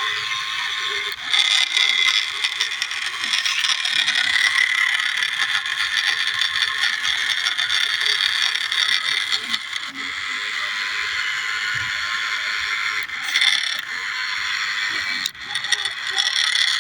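Small electric motor and reduction gearbox of a remote-control New Holland toy tractor whining steadily as it drives, a small motor geared down heavily. It cuts out briefly about a second in and again near the end.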